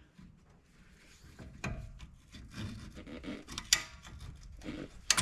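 Hand tools working a rusted shock mount bolt and bushing sleeve on a Jeep: metal scraping and rubbing, with scattered clicks and a few ringing metal clinks, the loudest near the end.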